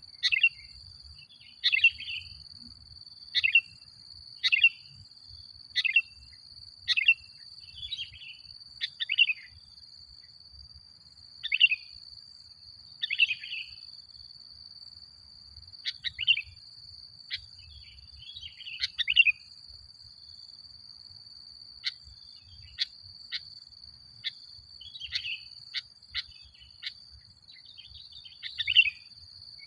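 Sooty-headed bulbul (kutilang) calling: short, bright chirping phrases repeated every second or two, with a few short pauses, over a steady high-pitched whine.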